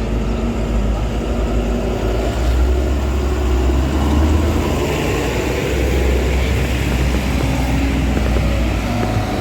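Tractor engines running, a steady low drone that swells a little about two and a half seconds in and again for a few seconds after the middle.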